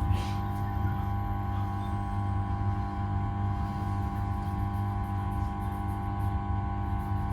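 Steady electric hum of a standing Class 323 electric multiple unit, several held tones over a low drone, with a brief click at the very start.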